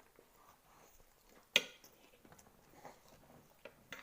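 Cutlery clinking once, sharply, against a plate about a second and a half in, with a few faint clicks near the end; otherwise only quiet room tone.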